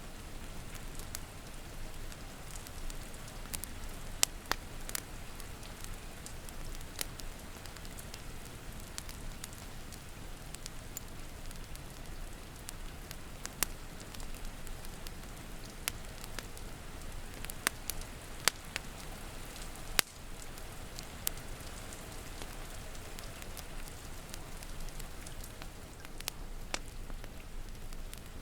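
Steady rain hissing together with a wood fire crackling, with sharp pops scattered irregularly through it.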